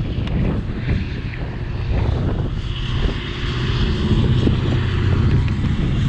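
Strong wind buffeting the microphone, a steady loud low rumble.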